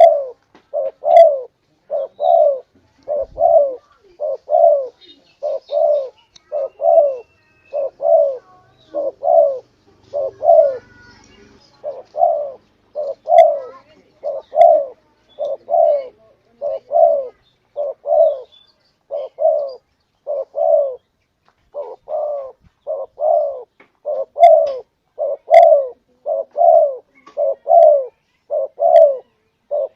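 Spotted dove cooing over and over: short, low coos in an even series of about one a second.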